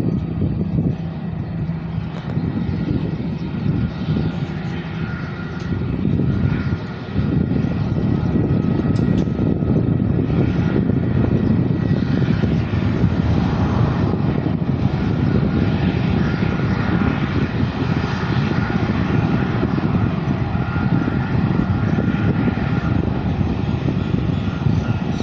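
Jet engines of a passenger airliner: a rumble with a faint steady high whine, growing louder about seven seconds in and holding steady after.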